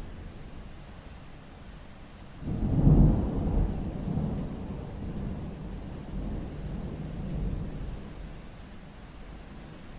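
Thunder rumbling during rain: a low rumble swells sharply about two and a half seconds in, then rolls on and fades over several seconds, over steady rain.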